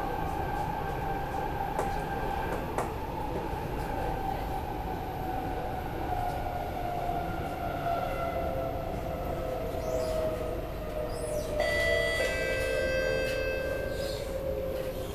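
Metro train heard from inside the car, its traction motors whining with a slowly falling pitch as the train slows for a station stop, over steady rumble. About two-thirds of the way through, several steady higher tones join the whine.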